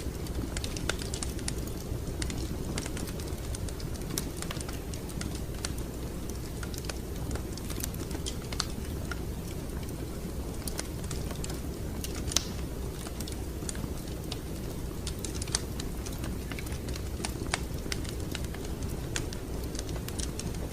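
Wood fire crackling: irregular sharp pops and snaps over a low, steady rumble of the burning fire, with one louder pop about halfway through.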